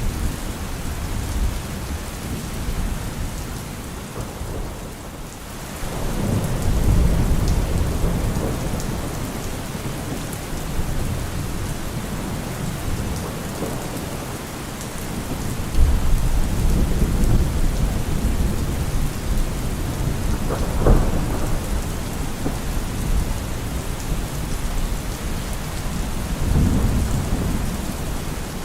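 Steady heavy rain in a thunderstorm, with thunder rumbling in low swells several times and one sharper crack about two-thirds of the way through.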